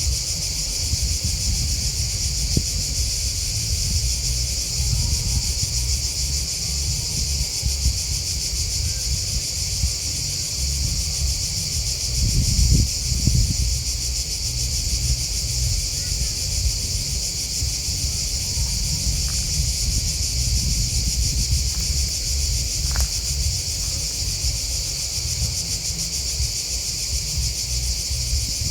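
A dense, steady chorus of grasshoppers and crickets chirping in a high, continuous shimmer. Under it runs an uneven low rumble, which swells briefly about halfway through.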